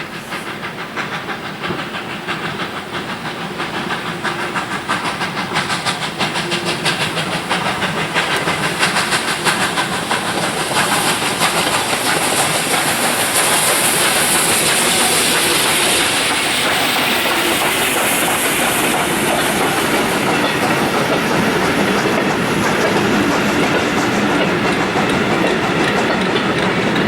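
PKP Ol49 steam locomotive and train running: a fast, dense clatter of wheels and exhaust beats that grows louder, with a strong hiss of steam from about halfway through.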